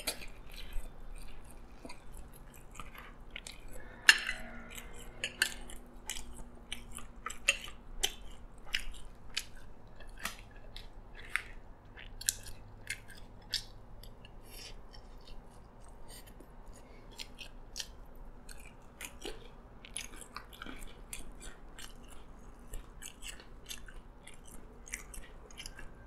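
Close-miked chewing of fried chicken and rice: many small irregular wet mouth clicks, several a second, with the spoon and fork now and then tapping the plate.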